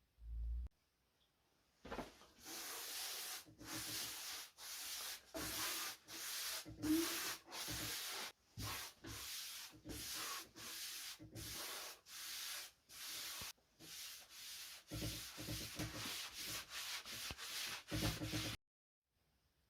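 Hand rubbing or sanding strokes on the wooden cabinet, back and forth at about one and a half strokes a second, stopping abruptly near the end. A short low thump comes just after the start.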